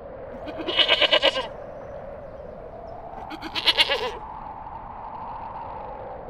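Two quavering bleats from a sheep or goat, each about a second long and roughly two and a half seconds apart.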